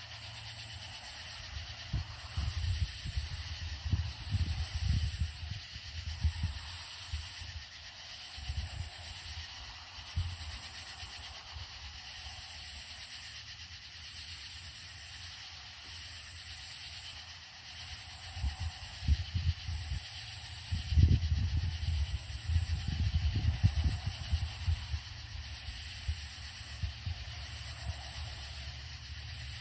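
Cicadas singing in a high-pitched, even rhythm, one pulse of song about every one and a half to two seconds. Beneath it runs an intermittent low rumble, strongest a little past the middle.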